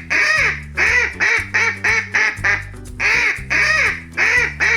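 Duck quacking: two longer quacks followed by a quick run of about five shorter ones, the pattern heard twice, over background music with steady bass notes.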